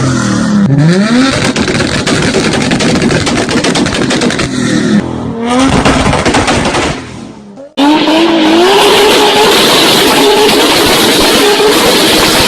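Performance car engine revving hard, its pitch dropping and climbing, with a rapid crackle of exhaust backfire pops. The sound breaks off briefly a little before eight seconds in and resumes as another car, revving up with more of the same crackle.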